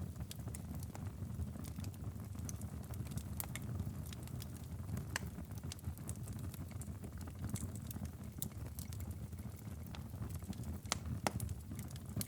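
Wood fire in a fireplace crackling and popping: irregular sharp snaps over a steady low rumble, with a couple of louder pops near the end.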